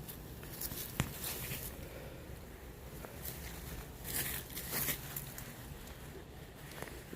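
Footsteps and rustling on a walk, picked up by a handheld phone, with a sharp click about a second in and brief scuffs a few seconds later.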